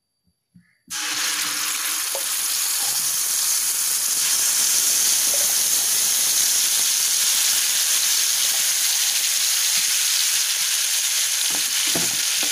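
Guava purée dropped into hot ghee in a pan, sizzling suddenly about a second in and then frying with a steady hiss. Near the end a spatula stirs it with a few knocks.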